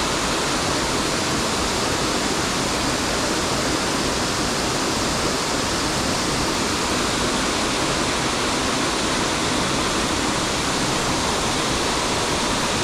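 Steady rushing of a waterfall and river water, an even hiss with no change in level.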